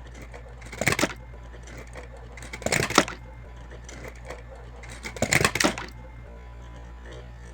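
Small toy cars clattering down steps in three separate bursts of rapid hard clicks and knocks. The bursts come about a second in, near three seconds and again a little after five seconds, over a steady low hum.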